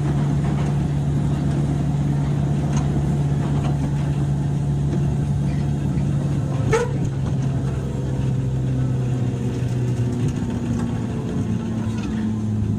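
JR 103 series electric train running, heard inside the motor car: a steady low traction-motor and gear hum over wheel and rail rumble. A brief rising squeak comes a little past halfway, and the hum changes pitch near the end.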